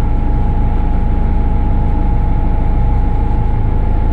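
Caterpillar IT-24 loader's diesel engine running steadily, with a steady whine over it.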